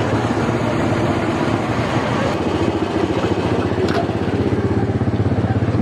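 Small petrol engine of a ride car running steadily, a low, evenly pulsing engine drone.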